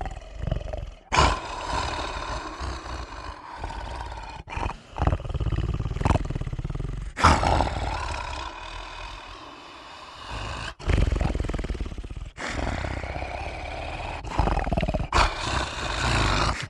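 Horror sound effect of a creature roaring and growling, rough and deep, in several sections separated by abrupt cuts.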